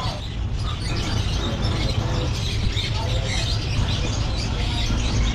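Small caged birds chirping and tweeting over a steady low rumble of market hubbub.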